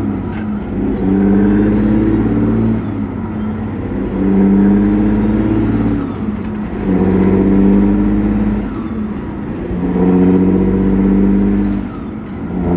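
Caterpillar 3406E inline-six diesel with 6-inch straight pipes, throttled up and let off four times, about every three seconds. A high whistle rises and falls with each pull.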